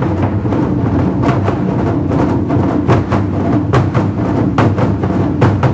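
Taiko drum ensemble playing a dense, fast run of strikes on large Japanese drums, with sharp high stick hits among the deep booming beats.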